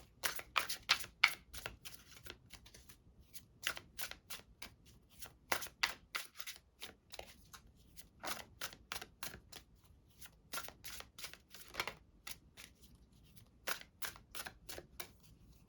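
A deck of oracle cards being shuffled by hand: a long run of quick, irregular card snaps and slaps with a few short pauses.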